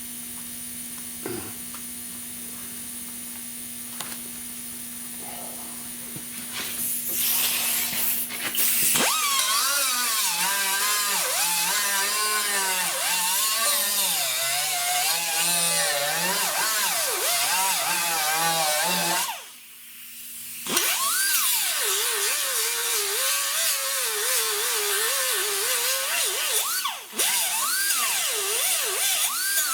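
A high-speed power cutting tool, a grinder or cut-off wheel, cutting car-body sheet metal as it is trimmed a little at a time. After a quieter steady hum, the tool bites in with its pitch wavering up and down under load, stops briefly past the middle, then cuts again.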